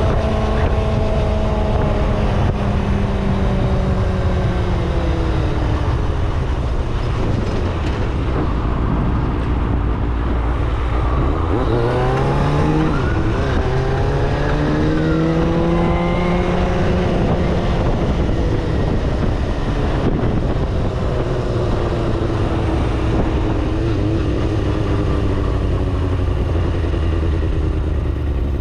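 Kawasaki ZXR250 inline-four engine under way, with heavy wind and road rumble throughout. Its pitch sinks over the first few seconds, climbs steeply about twelve seconds in as the bike accelerates, then eases back down.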